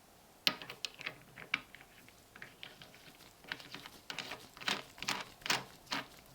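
An irregular series of sharp clicks and taps from small metal parts being handled, beginning about half a second in and coming thicker and louder near the end.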